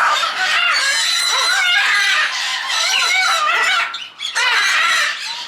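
Many parrots calling at once: loud, overlapping squawks and screeches from a flock, with a short lull about four seconds in.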